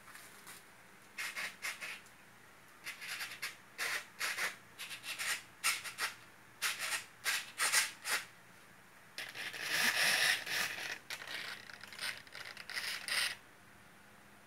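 Irregular scratching and rubbing handling noises in short bursts of a fraction of a second each, then a longer, denser rustle from about nine to thirteen seconds in.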